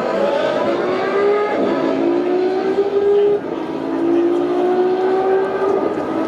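Formula 1 car engine accelerating through the gears. Its pitch climbs steadily and drops back at each upshift, three times, roughly every two seconds.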